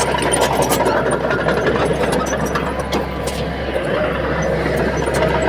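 Bulldozer's diesel engine running steadily, a low continuous drone.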